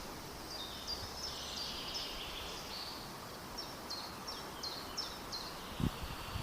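A bird calling in a repeated series of short, high notes that each slide downward, about three a second, over a steady outdoor background hiss. A brief low thump comes near the end.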